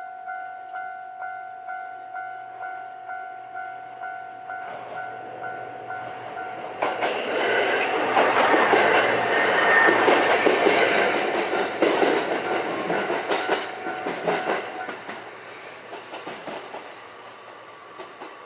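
Japanese level-crossing warning bell chiming at about two and a half strikes a second. About seven seconds in, a JR West KiHa 127 diesel railcar runs over the crossing: rising rush of engine and wheel noise with sharp clacks of the wheels over the rail joints, loudest around ten seconds. The bell stops about fifteen seconds in and the train noise fades away.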